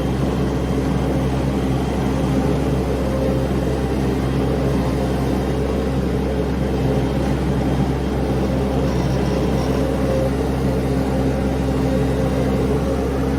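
Mini skid steer's engine running at a steady throttle. It hums evenly, with no change in pitch.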